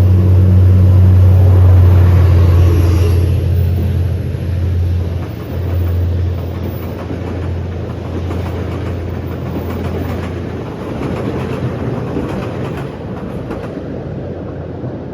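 Train with a steady low hum and a rumble, loud at first and then fading gradually as it moves away.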